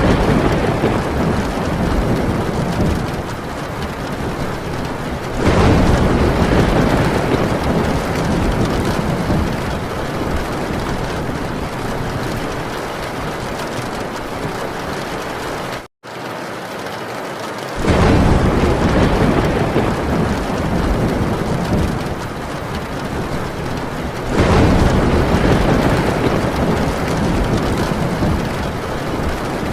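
Heavy rain drumming steadily on a tin roof, with rolling thunder. One roll is already sounding at the start, and fresh rumbles break in about five seconds in, two-thirds of the way through and again near the end, each dying away slowly. The sound cuts out for an instant just before the middle.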